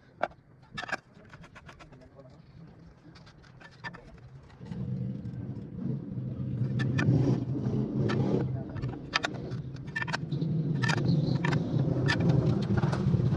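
Motorcycle engine starting about five seconds in and then running steadily, after a few seconds of scattered clicks and knocks.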